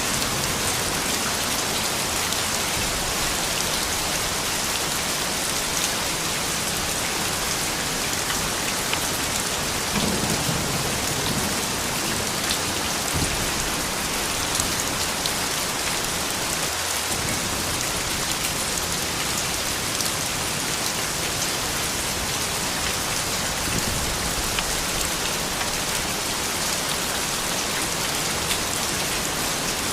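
Steady rain falling, with many small drop ticks through the even hiss, and a brief low rumble about ten seconds in.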